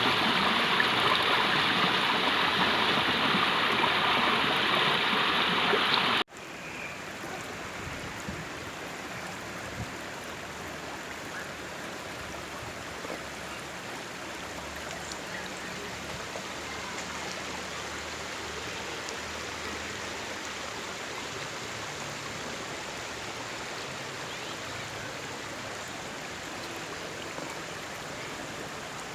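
Running water of a stream, a steady rushing flow. About six seconds in it cuts off abruptly and goes on as a quieter, softer flow.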